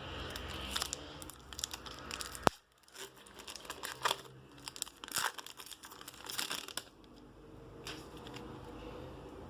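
Packaging being crinkled and torn open by hand, an irregular run of crackles and rustles, with one sharp click about two and a half seconds in.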